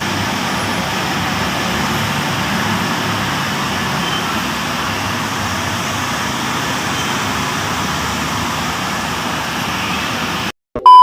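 Steady, even background noise with no distinct events. Near the end it cuts off to silence and a loud, steady beep tone begins.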